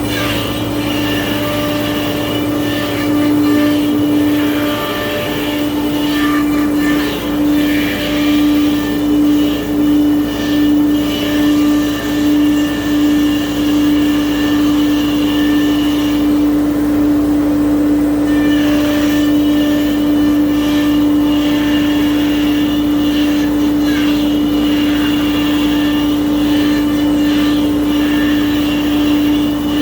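CNC router spindle running at speed: a steady single-pitched whine. For several seconds in the middle the level swells and dips about once a second.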